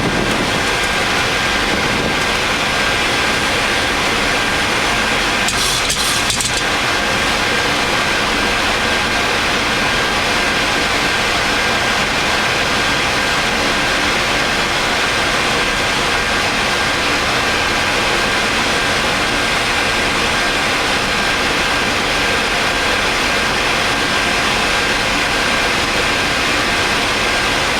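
Steady rushing flight-deck noise of a Boeing 737 MAX on final approach with gear down and flaps 30: airflow and engine noise at a constant level, with a faint steady tone. A brief, sharper sound stands out about six seconds in.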